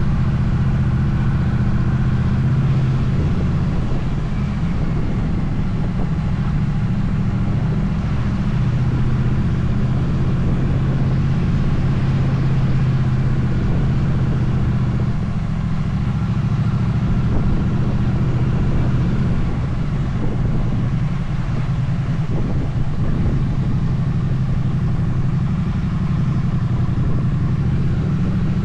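Motorcycle engine running steadily while riding along, a continuous low rumble with no change in pace.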